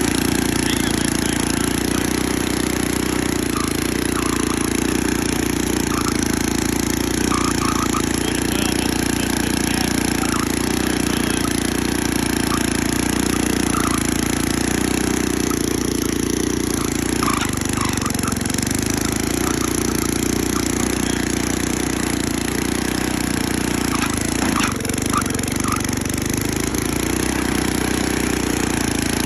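Troy-Bilt Horse tiller's 6 HP Tecumseh single-cylinder engine running steadily, with its note dipping briefly twice, about halfway and again near the end.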